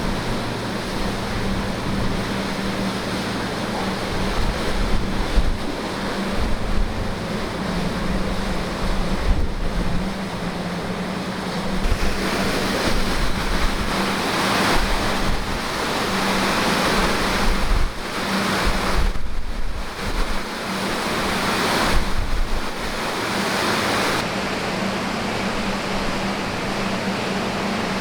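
Outdoor wind buffeting the microphone, a rushing noise that swells and eases every few seconds, over a steady low hum.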